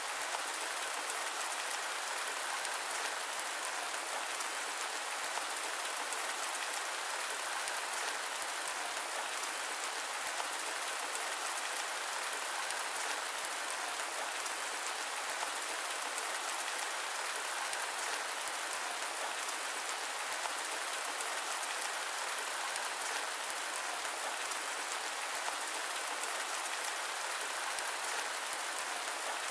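Steady rain blended with white noise: an even, unbroken hiss at a constant level, with no thunder.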